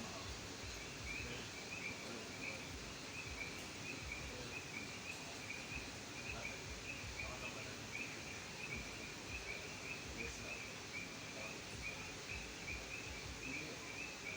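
Frogs calling in a continuous chorus: short, high calls repeated over and over without a break, over a steady background hiss.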